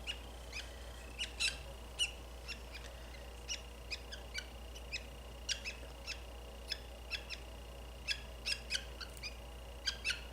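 Budgerigar giving short, sharp chirps at irregular intervals, about two or three a second.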